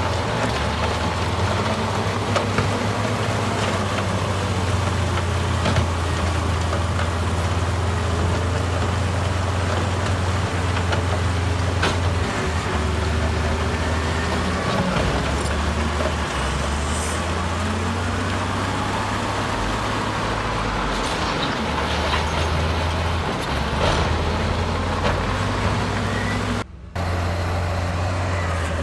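Heavy diesel engine of earthmoving machinery running steadily under load, its deep note shifting in pitch now and then, with a brief dropout near the end.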